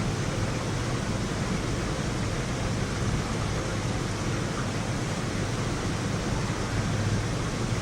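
Thunderstorm ambience: a steady, even rushing noise, with no thunderclap.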